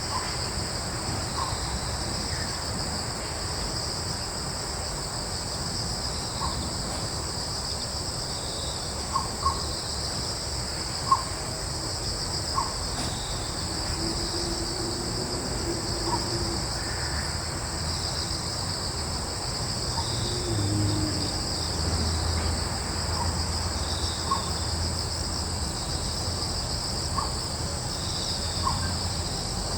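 Steady chorus of crickets and other insects, a continuous high-pitched drone, with short bird calls every second or two and a low rumble of breeze that grows a little louder after about twenty seconds.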